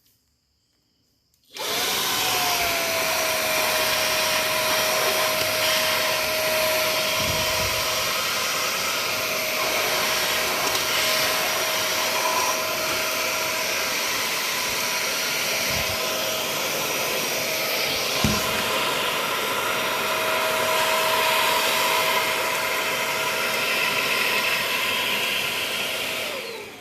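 Xiaomi Dreame V10 cordless handheld vacuum cleaner switched on about a second and a half in: the motor spins up and settles to a steady whine over a rush of air. It is switched off near the end, and its pitch falls as it winds down.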